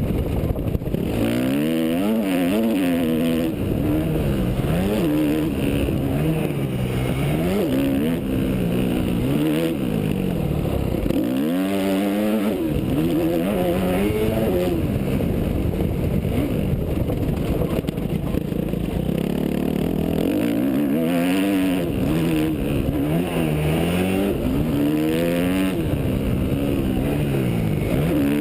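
Yamaha YZ250F four-stroke single-cylinder motocross engine being ridden hard. The revs climb and fall over and over as the throttle is opened and shut and the rider changes gear, with one deeper drop in revs about halfway through.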